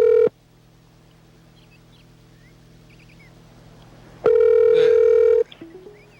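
Telephone line ringing with an incoming call: a steady electronic ring tone stops just after the start, then after about four seconds of quiet rings again for about a second and cuts off as the call is picked up, followed by a few clicks.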